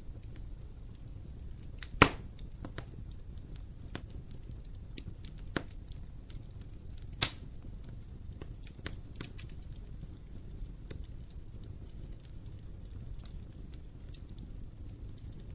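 Wood fire burning in an open fireplace: a steady low rumble of flames with scattered small crackles and two sharp pops, about two seconds in and about seven seconds in.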